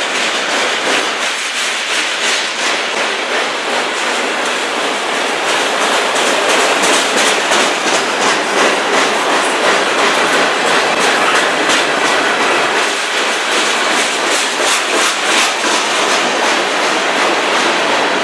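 Freight cars of a passing manifest train, steel wheels rolling loudly and steadily on the rails with a rapid clickety-clack of wheels over rail joints.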